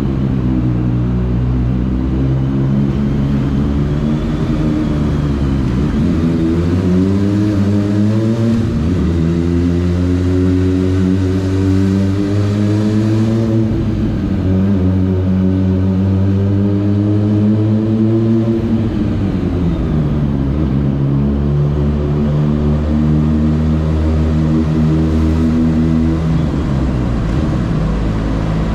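Kawasaki ZX25R's four-cylinder engine riding along, its pitch climbing under throttle and dropping several times through the ride as it shifts gear or rolls off.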